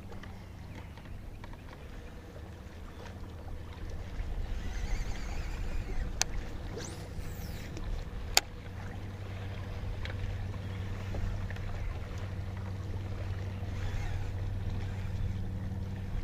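A boat's motor humming steadily, louder from about halfway through, with two sharp clicks about two seconds apart.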